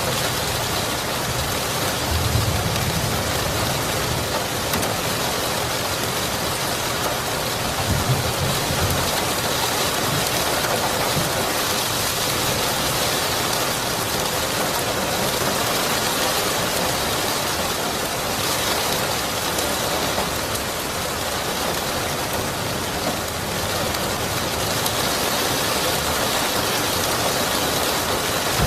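Steady rain falling and pattering, with low rumbles of thunder about two seconds in and again around eight seconds.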